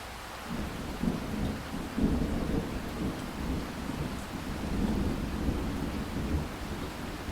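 Thunder rumbling over steady rain: the deep rolling rumble sets in about half a second in, swells around two seconds and keeps rolling, with the rain's hiss underneath throughout.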